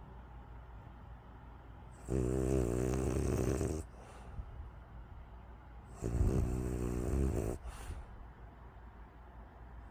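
French bulldog snoring in her sleep: two long snores about four seconds apart, each lasting about a second and a half, with quieter breathing between.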